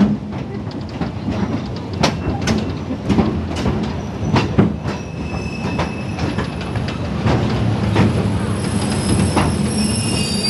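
Passenger train heard from on board, rolling with a steady rumble and irregular clacks of the wheels over the rail joints. From about halfway, high-pitched wheel squeal sets in and grows stronger near the end.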